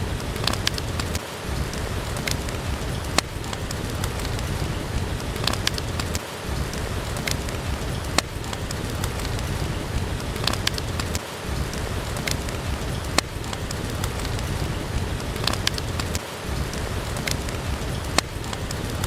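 Steady rain with the sharp, scattered pops of a crackling wood fire in a fireplace. The low rumble briefly dips about every five seconds.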